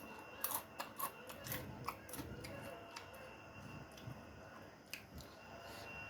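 Close-up chewing of crunchy food: irregular sharp crunches and clicks, several in quick succession in the first two seconds, then a few scattered ones.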